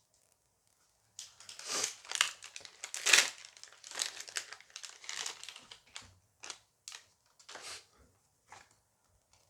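Foil booster pack crinkling and tearing as it is opened by hand, starting about a second in as a run of irregular rustling bursts that thin out towards the end.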